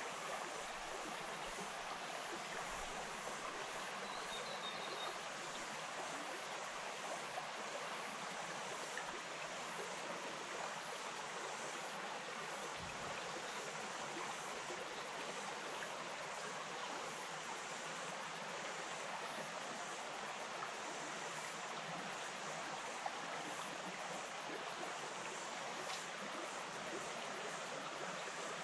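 A small bush stream flowing and trickling steadily over rocks.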